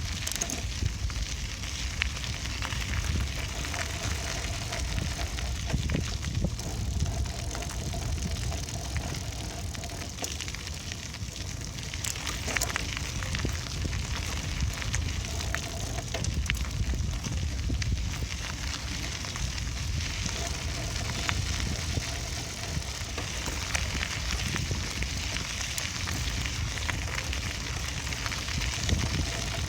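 Riding a bicycle: wind rumbling on the microphone over the hiss of tyres rolling on the path, with scattered clicks and rattles from the bike.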